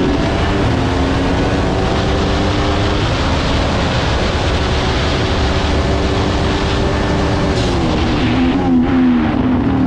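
Onboard sound of a Haas Formula 1 car's turbocharged V6 running at high, fairly steady revs, then dropping in pitch as the car slows near the end, with short bursts of noise during the deceleration. The narrator likens this deceleration noise to a big turbo discharge and thinks it comes from a part close to the onboard camera's microphone.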